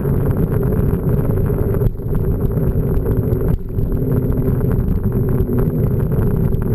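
Wind buffeting an action camera's microphone during a mountain bike ride, a loud steady low rumble with two brief dips.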